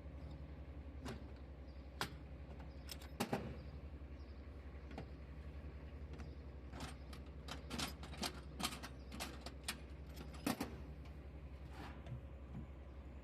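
A low, steady mechanical hum like an idling engine, with irregular sharp clicks and knocks, most of them bunched between about seven and ten seconds in.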